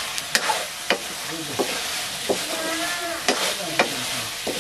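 Chicken pieces sizzling in a dark iron wok over a wood fire while a metal ladle stirs them, with a sharp scrape or clack of the ladle against the pan roughly every half second to second.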